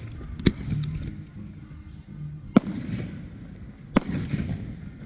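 Aerial firework shells bursting: three sharp bangs, about half a second, two and a half and four seconds in, each trailing off into a low rumble.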